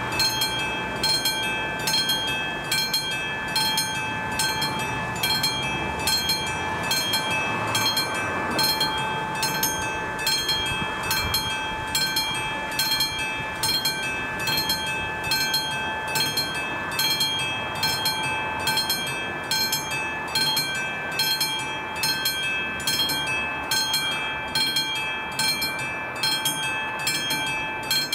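Czech level crossing warning bell ringing in a steady, regular rhythm of about one and a half strikes a second, each strike leaving a ringing tone: the crossing's warning is active for an approaching train.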